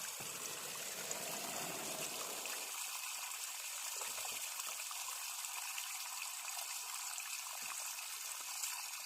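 Running water splashing steadily, with a fuller splashing in roughly the first three seconds.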